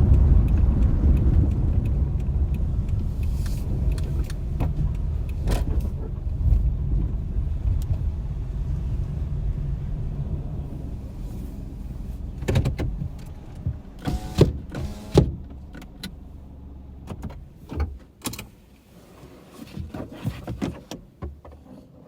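Car cabin road and engine rumble fading steadily as the car slows to a stop. Then come scattered short clicks and knocks inside the car, a cluster of them about two thirds of the way through.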